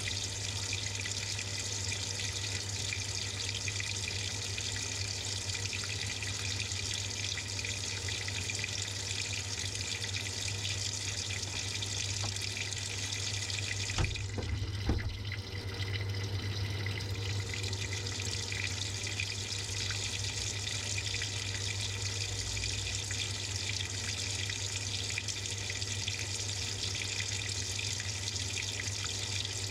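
Samsung top-load washing machine filling: water pouring steadily into the tub, heard from inside the drum, over a steady low hum. A couple of short knocks about halfway through.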